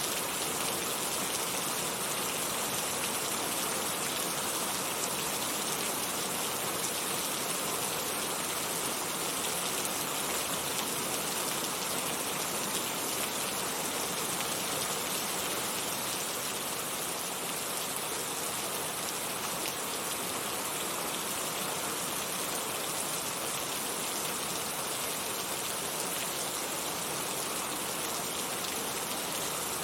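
Heavy rain falling steadily: an even hiss of many drops, without gaps or single strikes.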